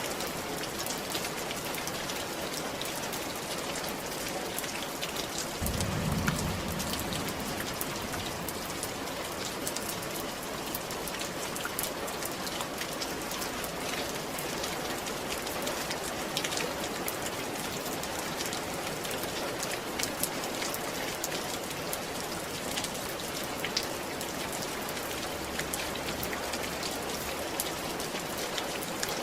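Steady rain falling on a roof, with scattered sharper drop hits. A brief low rumble comes about six seconds in.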